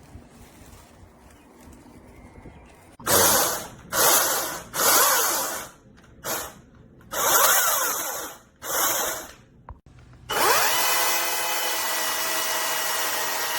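A battery-powered tool's electric motor triggered in six short bursts, then held on steadily for the last few seconds, its whine rising as it spins up.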